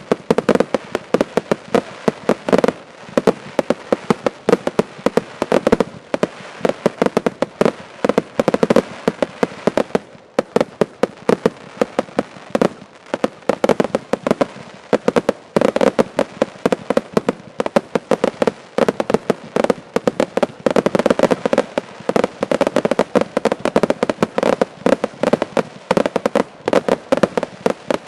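Fireworks display finale: a dense, continuous barrage of bangs and crackles from many fireworks fired together, several reports a second, with a brief lull about ten seconds in.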